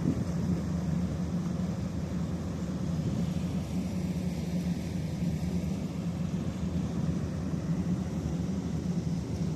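Boat engine running steadily with an even low drone.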